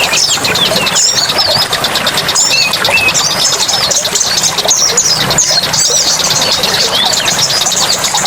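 Forest ambience: several birds chirping and whistling in short, quick calls over a steady hiss, with a fast even pulsing trill running underneath.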